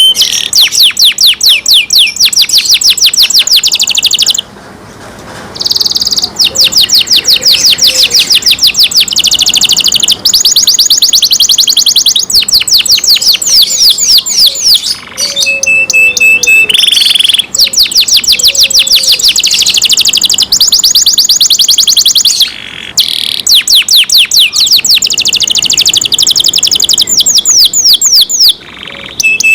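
Canary singing loudly in long rapid rolls of repeated downward-sweeping high notes, several a second, broken by a few short pauses. Now and then it holds a steady high note.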